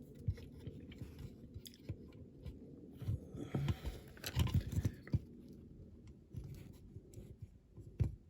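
Parts of a small diecast model car being handled and prised apart on a workbench: irregular light clicks and scrapes, busiest around the middle, with one sharp click near the end.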